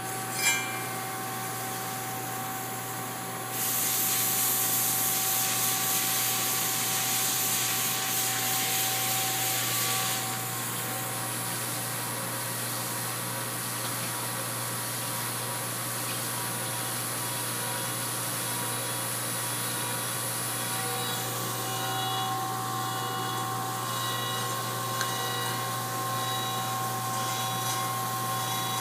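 Double-disk grinder running with a steady hum and several steady tones, with a sharp click just after the start. From about three and a half seconds to ten seconds a louder hissing, rubbing noise rises over it as the abrasive disks grind a flatstone, then it settles back to steady running.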